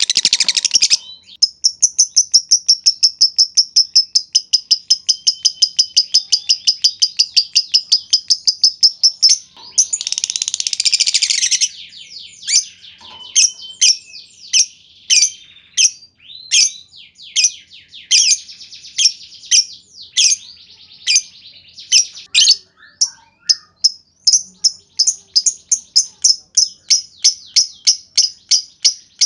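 Lovebird calling in high, sharp chirps. It opens with a long run of rapid, evenly repeated chirps and a brief harsh rattling burst, then gives separate chirps about two a second, and speeds back into a rapid run near the end. This is the 'ngetik' (typing) chirping used as a bait call to set other lovebirds trilling.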